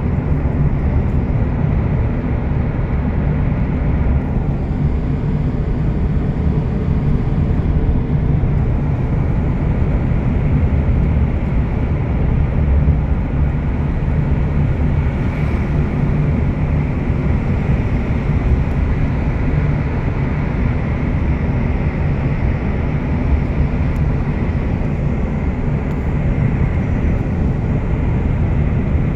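Steady low rumble of a vehicle travelling along a highway: engine and tyre noise, unbroken throughout.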